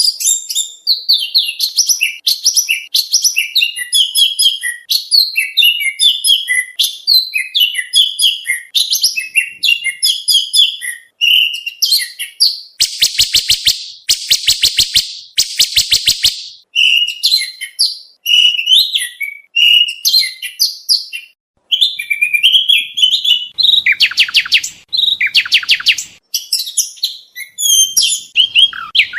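Oriental magpie-robin (kacer) song: a fast, varied run of loud whistled and chattering phrases. Harsh rapid rattling trills break in for a few seconds about halfway through and again briefly later on.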